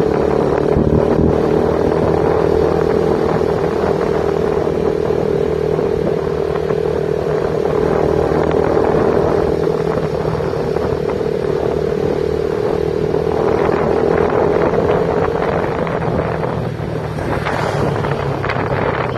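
Motorcycle engine running at a steady speed while riding, its note fading near the end as wind noise on the microphone grows.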